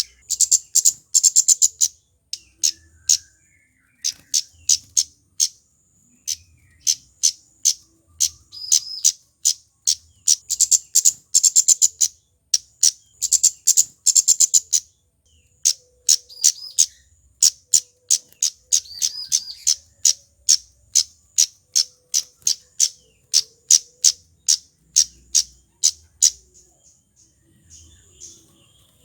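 Male flowerpecker calling: trains of very short, sharp, high ticking notes in quick succession, broken by brief pauses, with a few slightly lower notes mixed in.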